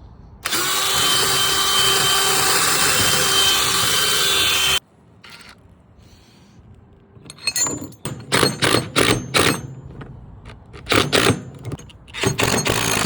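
Handheld power drill running steadily for about four seconds and stopping abruptly, then several short, quick bursts of the tool in clusters, as fasteners are driven while a post is mounted to a wooden wall.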